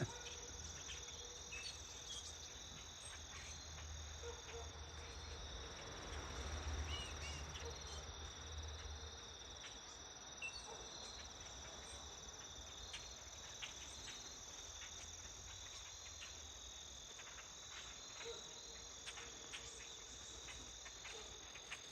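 Steady evening chorus of crickets and other insects, a continuous high trilling. A few faint short chirps and ticks come through, and a faint low rumble swells and fades between about five and nine seconds in.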